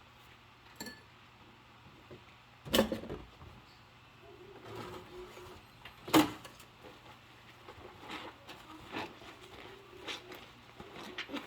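Dishes knocking and clinking as they are washed by hand in rubber gloves, with two louder knocks about three and six seconds in and short squeaky stretches in between.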